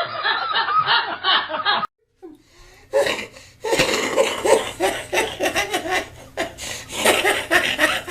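People laughing, snickering and chuckling. The laughter breaks off about two seconds in for a moment of near silence, then picks up again in a different recording.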